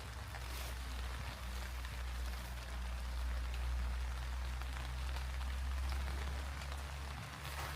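Steady rain falling, with scattered single drops ticking, over a steady low rumble.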